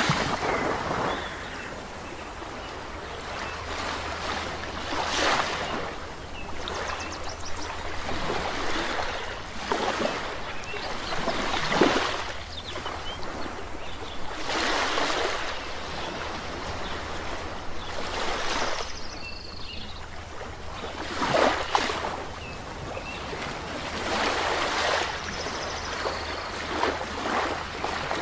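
Sea waves breaking on a shore, the surf swelling and washing in every few seconds, with faint brief bird chirps now and then.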